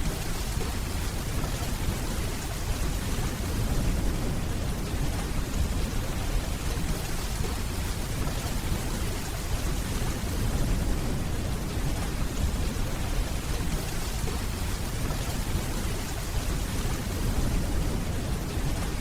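Steady rainfall with a continuous deep rumble of distant thunder underneath.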